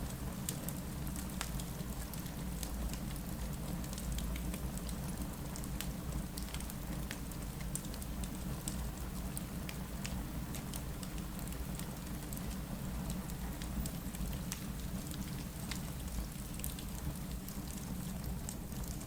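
Rain falling against a window mixed with a crackling fireplace: a steady hiss of rain over a low rumble, with scattered sharp clicks and pops throughout.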